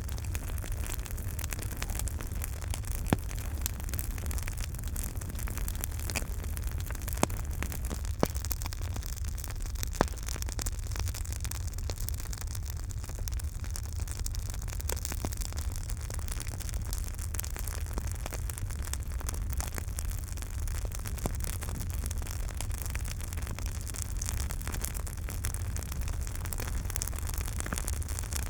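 Campfire burning: a steady low rumble of flames with dense fine crackling and a few louder, sharp pops in the first ten seconds.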